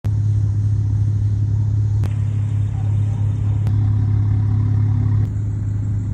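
BMW car engine running with a steady low drone, with a few faint sharp clicks along the way.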